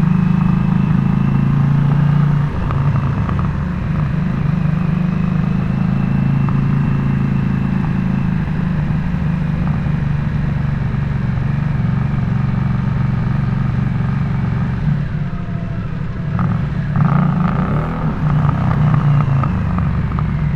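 Harley-Davidson Nightster's V-twin engine running through a Jekyll & Hyde adjustable valve exhaust while riding: a steady low exhaust note with small changes in engine speed. It eases off about fifteen seconds in and picks up again near the end.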